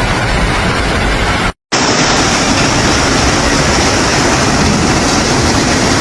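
Loud, steady rushing noise with no distinct tones, broken by a moment of silence about a second and a half in.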